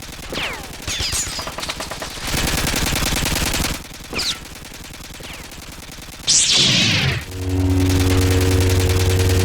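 Sound-effect machine-gun fire in rapid continuous bursts, with a few falling whistles among the shots. About six seconds in comes a loud hissing blast, followed by a loud steady hum.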